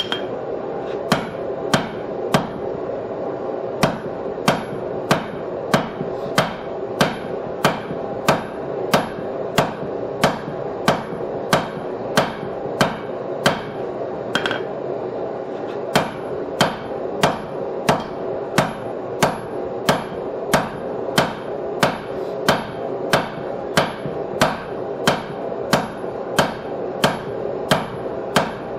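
Hand hammer striking hot steel on an anvil in a steady rhythm of about one and a half blows a second, with a short pause about halfway, as the stock of a bottom fuller is driven down and thinned.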